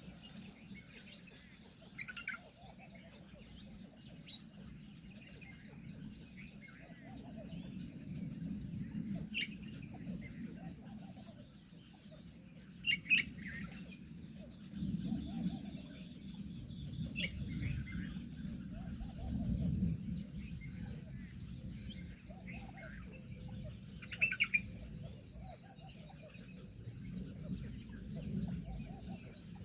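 Birds chirping: short, scattered calls every few seconds, with a pair of louder chirps about halfway through and another pair near the end, over a low, uneven rumble.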